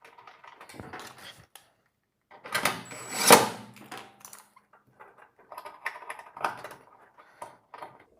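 Clicks, taps and rattling of small metal parts being handled while a replacement thermal fuse is screwed onto the electric dryer, with a louder clatter about three seconds in.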